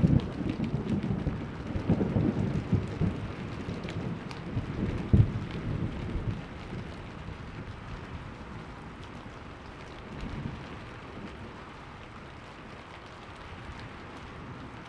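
Thunder rumbling over steady rain, with a sharper crack about five seconds in. The rumble dies away after about six seconds, leaving the even hiss of falling rain.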